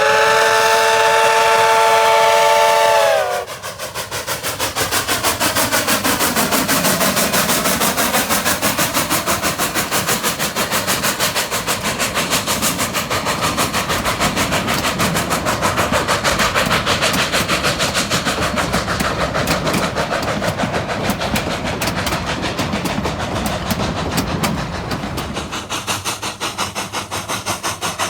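Steam whistle of coal-fired D&RGW K-36 2-8-2 locomotive 487 sounding one long blast of several tones together, ending about three seconds in. The steam locomotive then keeps working, with rapid, even exhaust beats and running clatter that ease a little near the end.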